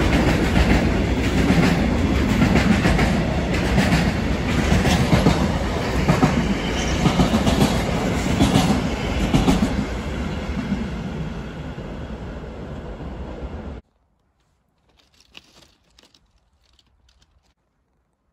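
Freight train of intermodal container wagons rolling past, wheels clattering over the rail joints in repeated knocks. The noise tails off as the last wagons go by, then cuts off suddenly about fourteen seconds in, leaving only a few faint ticks.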